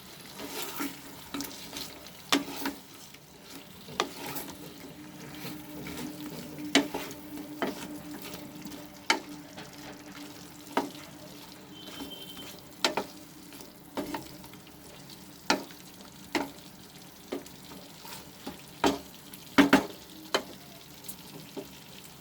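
A cooking utensil stirring chicken pieces through a thick sauce in a pan, with irregular sharp clinks against the pan over a soft sizzle.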